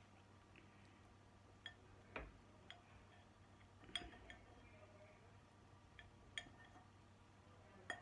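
Faint scattered clinks and taps of tableware, several separate sharp ones, as food is handled and eaten.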